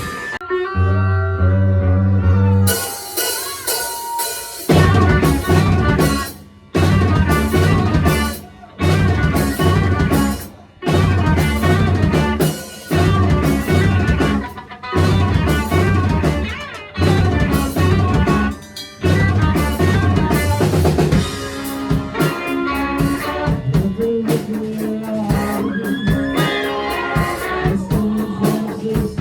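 Live rock band with electric guitar, bass and drum kit starting a song. A few seconds of low bass notes come first, and cymbals join near three seconds. From about five seconds the full band plays stop-start hits with short silent breaks roughly every two seconds, then plays straight through from about twenty seconds in.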